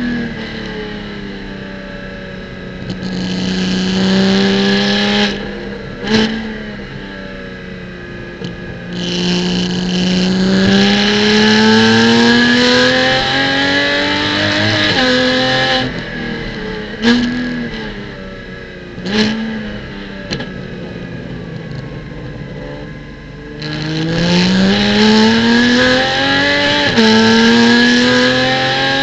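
Porsche Cayman GT4 Clubsport's flat-six engine at racing pace, revving up and down through the gears. There are several sharp blips on the shifts, about six seconds in and twice more later, and a long rising pull near the end.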